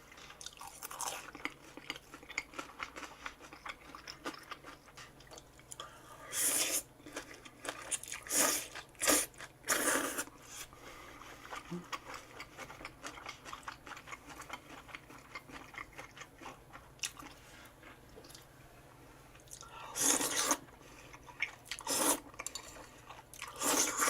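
Close-up eating sounds: steady chewing with crunchy bites. There is a cluster of louder bites about six to ten seconds in, and another cluster near the end.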